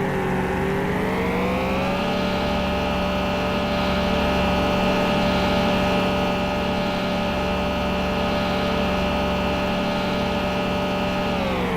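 An engine running steadily, its pitch dipping and climbing back again near the start and again at the very end.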